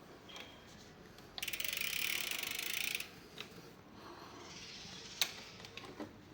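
Bicycle freewheel ratchet clicking rapidly for about a second and a half as the wheel or cranks spin freely, followed by a few single sharp clicks.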